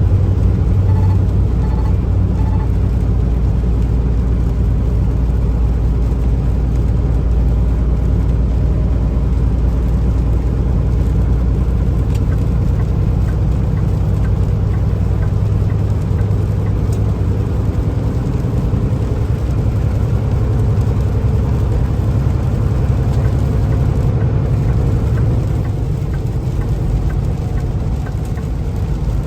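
Semi truck's diesel engine running steadily at highway cruising speed, with tyre and road noise, heard from inside the cab.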